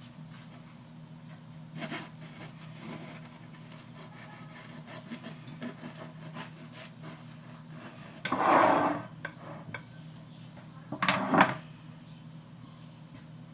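Kitchen handling sounds over a steady low hum: light clicks, then two short scraping, rubbing noises, the louder one about eight seconds in and another about three seconds later.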